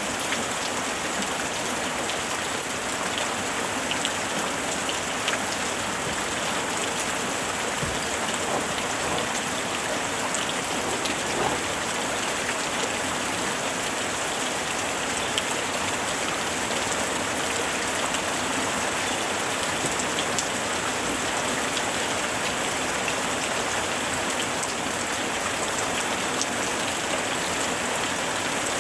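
Steady rain falling, with a dense patter of individual drops ticking on a surface.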